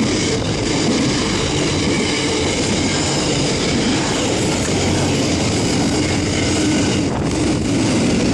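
Freight train passing close by on the platform road: a steady, loud rolling noise of steel wheels on rail from the wagons behind its NR class locomotives.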